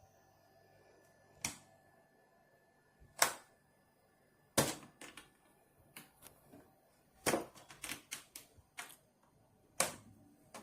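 A series of sharp clicks and knocks, about ten, spaced irregularly and bunched more closely near the end, like hard objects being handled.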